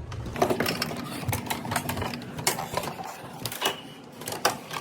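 Irregular clicks and knocks of hands handling equipment, over a faint steady hum.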